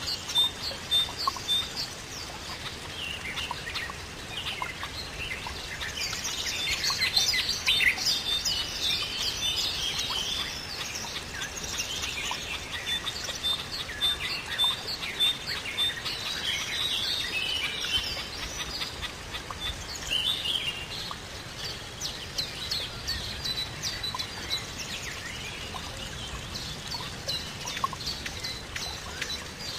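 Several small birds chirping and singing at once, busiest in the middle stretch; one gives a quick run of evenly spaced high notes near the start.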